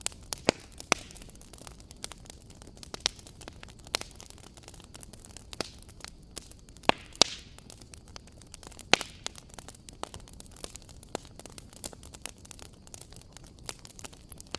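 Wood fire crackling in a fireplace: irregular sharp pops and snaps of varying loudness, a few louder ones near the start and in the middle, over a soft steady hiss.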